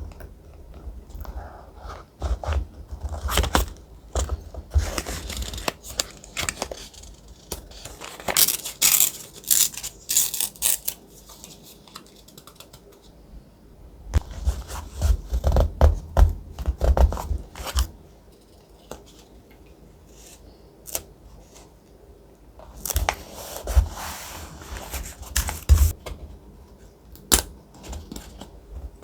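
Thick paper handled close to the microphone: bursts of rustling, crinkling and tearing with small taps and clicks, separated by quieter pauses.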